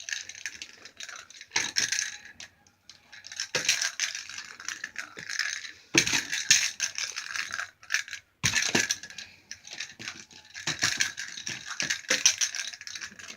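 A pet bird's toy ball rattling and clicking in repeated bursts with short pauses as the bird plays with it.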